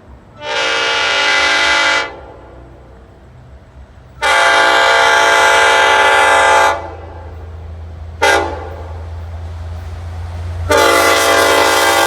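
Long Island Rail Road train sounding its multi-tone horn in the grade-crossing pattern: two long blasts, a short one, and a final long blast, over the rumble of the approaching train, which grows louder near the end.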